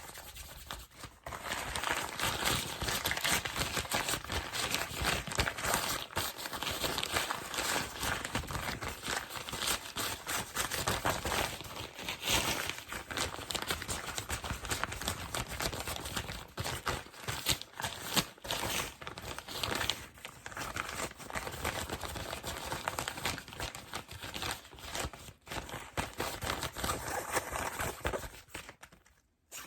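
Plastic and cardboard packing material being crinkled, rubbed and tapped quickly and hard close to the microphone, a dense continuous crackling. It stops briefly just before the end.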